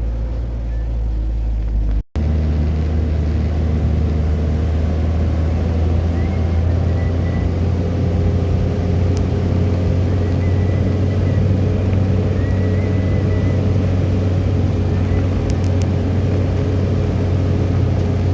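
Vehicle engine and road noise from driving: a steady low drone that cuts out for an instant about two seconds in.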